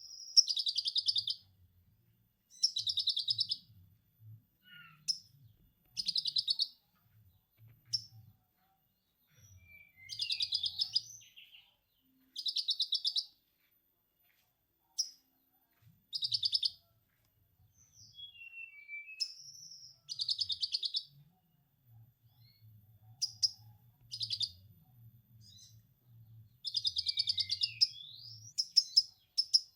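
Konin songbird singing repeated bursts of rapid, high chattering in the manner of a lovebird's 'ngekek' trill, with short whistled downslurred notes between the bursts.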